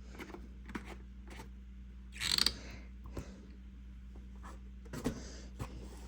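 Light clicks and knocks from a gasoline chainsaw's plastic housing as it is handled and turned over. There is a brief scraping rustle about two seconds in and a smaller one near the five-second mark.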